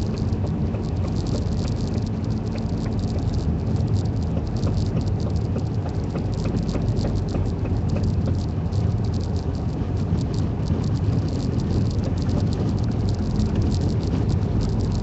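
Tire chains rattling and clinking steadily against a snowy road, heard inside the cabin over the low rumble of a vehicle driving slowly.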